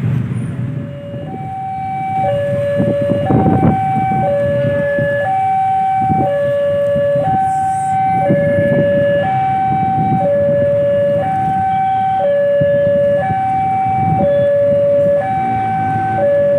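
A two-tone hi-lo warning siren alternating evenly between a higher and a lower note, each held about a second, with road traffic running underneath.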